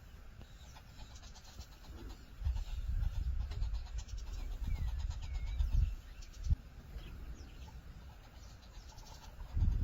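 Birds calling, faint short chirps and gliding notes, over a low rumble that swells for a few seconds in the middle, with a single knock near the end of the rumble.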